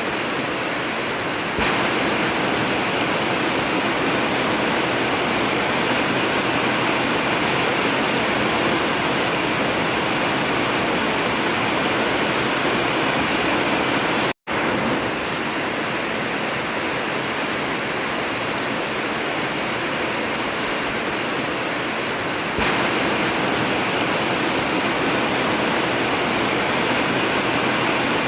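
Heavy rain falling steadily on an old tin roof, a dense even hiss. The sound steps up abruptly in level a couple of seconds in and again near the end, and cuts out to silence for an instant about halfway through.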